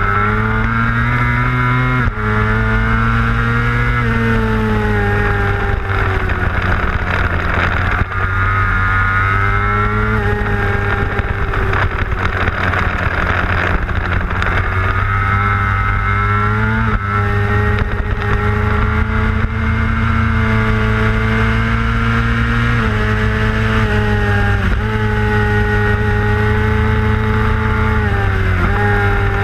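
600cc racing motorcycle engine at high revs, heard onboard at race pace. The pitch climbs and holds, then steps down sharply several times as the rider shifts gears and brakes for corners.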